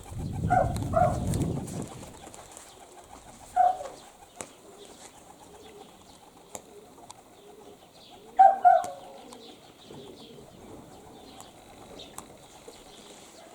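Wind rumbling on the microphone for the first two seconds. Short bird calls come twice early on, once more a few seconds later, and as a loud double call about eight seconds in.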